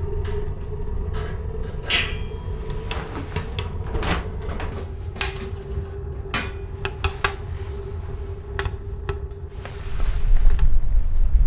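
Irregular knocks and clatter of things being handled in a small wooden shelter, over a low wind rumble and a steady faint whistling tone. Near the end, strong wind gusts buffet the microphone.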